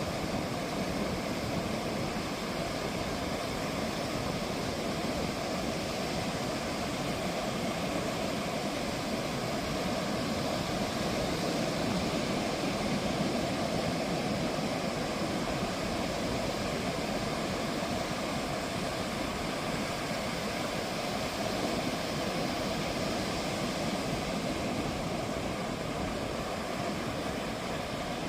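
Ocean surf breaking on a sandy beach: a steady roar of waves, swelling slightly about halfway through.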